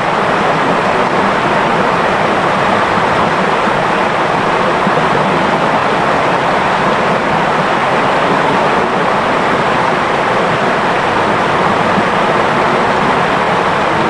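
Clear river flowing, a steady, even rush and babble of running water.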